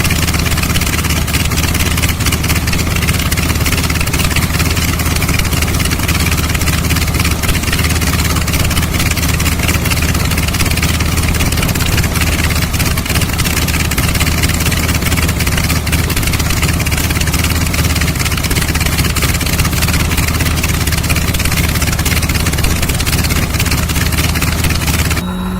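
Large Curtiss-Wright aircraft piston engine running steadily at idle, a loud even drone that breaks off just before the end.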